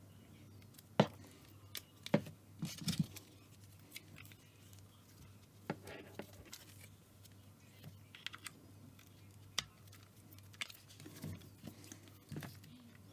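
Hands handling a new laptop and its packaging: irregular taps, clicks and light rustles of cardboard and plastic. The sharpest taps come about a second in and again around two to three seconds in.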